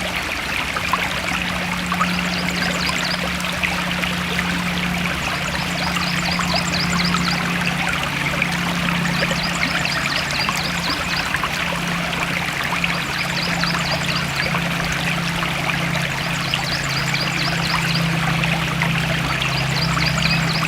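Forest stream water flowing and trickling steadily. Short, high trills of rapid chirps repeat every few seconds over it, with a low steady hum underneath.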